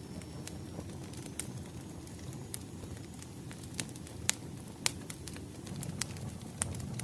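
Wood fire crackling: irregular sharp pops over a low steady rumble, with two louder pops about four and five seconds in.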